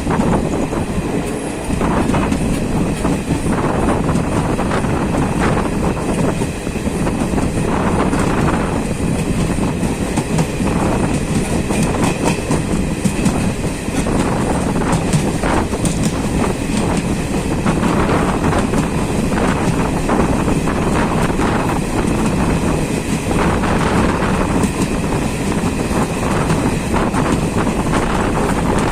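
Jan Shatabdi Express passenger train running along the line, its wheels rumbling and clattering on the rails in a steady loud roar of track noise.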